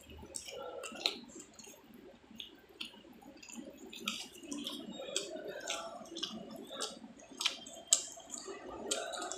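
A person chewing a bite of cheesy pizza close to the microphone: wet smacking and squishing with scattered short clicks, two sharper ones about a second in and near the end, over a low murmur of background chatter.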